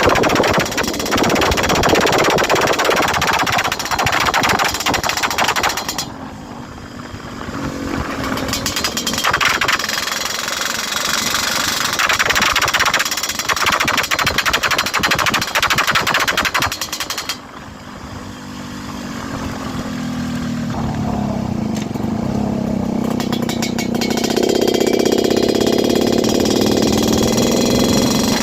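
Yamaha RX-King 135cc two-stroke single-cylinder engine revving hard under acceleration, with a rapid crackling exhaust rattle. The throttle drops off about six seconds in and again past the middle, and after that the revs climb steadily with a rising pitch.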